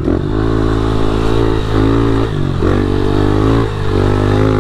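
Pit bike's small single-cylinder engine running under way, its revs dipping briefly about three times and picking up again each time.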